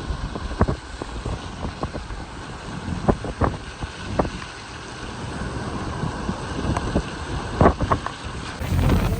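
Rainstorm: steady wind and rain noise with wind rumbling on the microphone, broken by scattered sharp taps.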